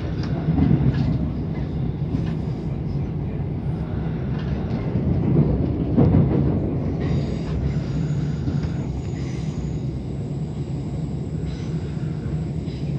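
Steady rumble of a passenger train running over the tracks, heard from inside the carriage. It swells louder about five to six seconds in, peaking with a sharp knock.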